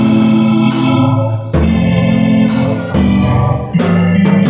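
Organ playing held gospel chords that change every second or so, with sharp percussion hits every second or two.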